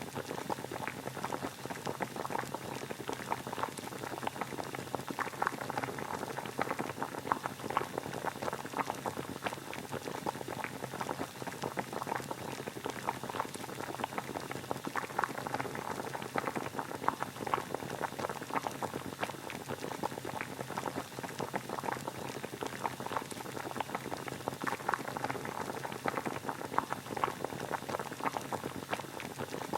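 Water boiling, a steady dense bubbling and crackling.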